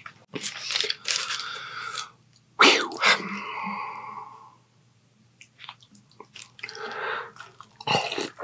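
Close-miked eating sounds of a man chewing, with a drawn-out voiced mouth sound about a third of the way in. Near the end he takes a loud bite into a jus-dipped sandwich.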